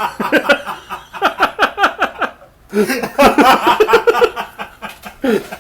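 People laughing hard in quick repeated bursts, breaking off briefly a little over two seconds in and then starting up again.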